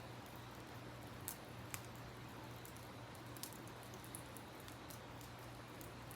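Campfire wood crackling, with scattered sharp pops, over a steady rush of river water.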